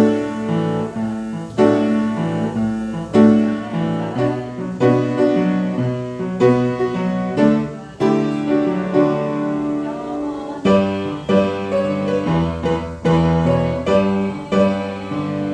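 Piano playing slow, sustained chords, a hymn-like piece, with a deeper bass line coming in about two-thirds of the way through.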